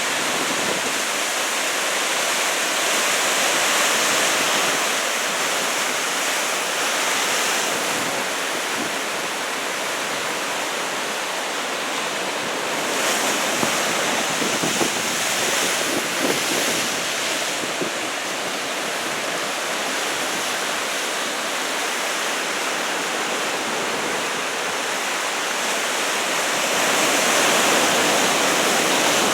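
Heavy surf from a typhoon swell: waves breaking and washing in, a continuous rushing noise that swells louder with each set every several seconds.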